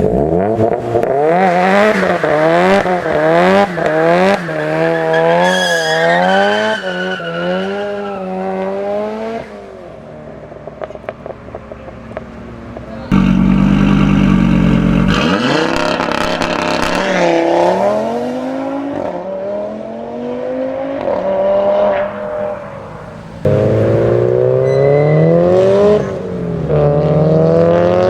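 Modified performance car engines revved hard, the pitch swinging rapidly up and down for several seconds, then accelerating with repeated rising sweeps. A short quieter spell about ten seconds in holds a few sharp exhaust crackles.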